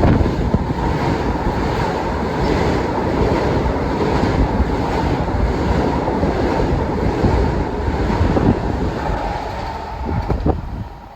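Long Island Rail Road train running through the station at speed: a loud, steady rush of wheels on rail with some knocking, easing off about ten seconds in.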